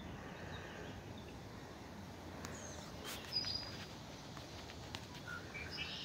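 Quiet outdoor ambience with a few faint, brief bird chirps, the clearest a little past three seconds in.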